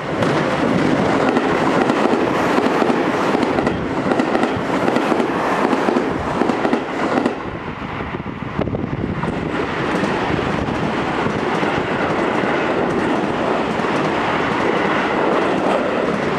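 Two Seibu 30000 series electric trains passing in turn: a steady rumble of wheels on rail with clacks over the joints and points. It eases briefly about halfway, then builds and holds as the second train goes by close.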